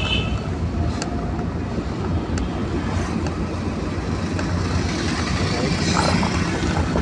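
Car driving along, with a steady engine hum and road rumble heard from inside the cabin.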